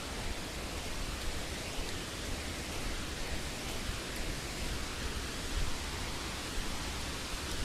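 Steady rushing of a waterfall close by, an even hiss with no breaks.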